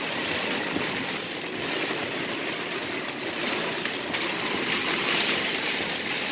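Heavy rain drumming steadily on a car's roof and windshield, heard from inside the cabin.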